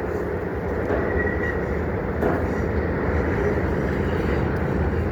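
CSX freight train rolling past, a steady rumble of railcar wheels on the rails. A brief high tone sounds about a second in.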